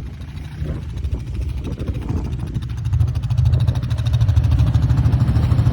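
ATV engine running under throttle while the quad sits stuck in deep mud, digging itself in deeper rather than climbing out. The engine gets louder about three seconds in.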